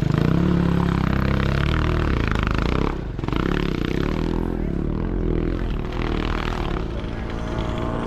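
Sidecar motocross motorcycle engines revving and running hard, the pitch rising and falling with the throttle, with a brief drop about three seconds in.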